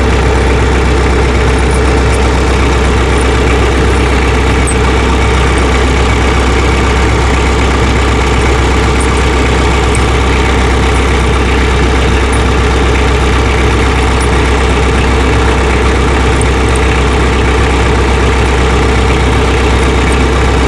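Tractor engine idling steadily with a deep, even hum, its speed unchanged throughout.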